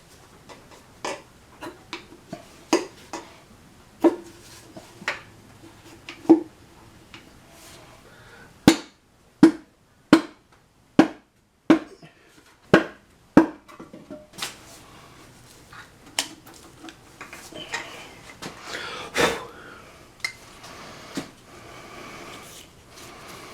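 Sharp metal-on-metal taps, each with a short ringing tone, as pistons and connecting rods are tapped out of the engine block, with a faster run of about seven evenly spaced blows midway. Toward the end, metal parts scrape and clatter, with one louder clank.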